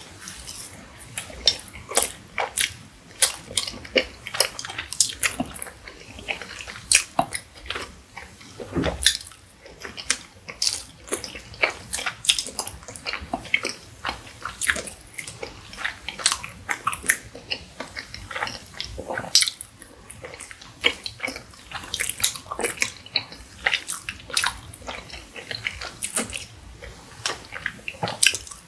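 Close-miked eating: chewing soft takoyaki, with frequent irregular sharp mouth clicks several times a second.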